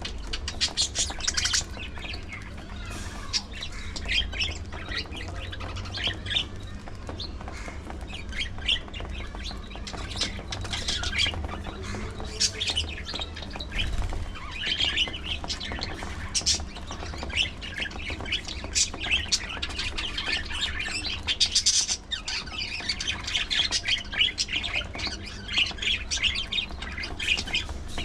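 A flock of budgerigars chattering and squawking, with many short, high chirps overlapping without a break. A steady low rumble runs underneath.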